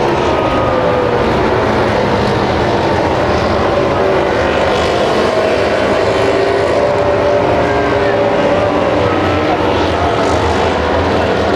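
Several MotoGP racing motorcycle engines running at high revs at once, their pitch rising and falling as they accelerate and brake, over a loud steady din from the track.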